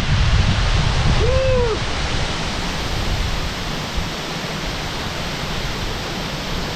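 Muthyala Dhara waterfall: a steady rush of water falling from a great height and breaking into spray. About a second and a half in there is a brief rising-then-falling tone.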